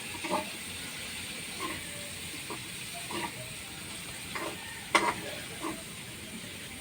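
Steady background hiss with scattered faint taps and knocks, and one sharper click about five seconds in.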